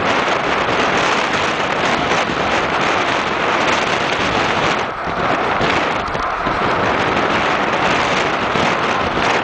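Steady loud rushing noise of wind buffeting the microphone over vehicle and road noise, easing briefly about five seconds in.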